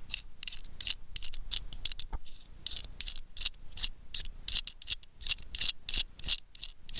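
A nut being twisted onto a bolt by hand, its threads scraping in a run of short, quick scratches, with one sharper click about two seconds in.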